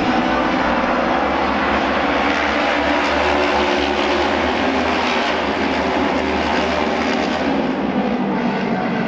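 Several Japanese auto race motorcycles running flat out around the oval track, their engines blending into one loud, steady drone.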